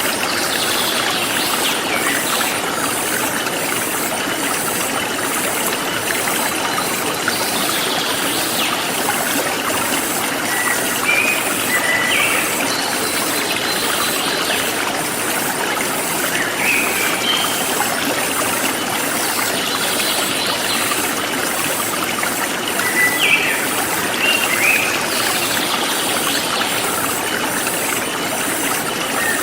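Forest stream flowing steadily, with birds chirping briefly now and then and a high, evenly repeating insect pulse.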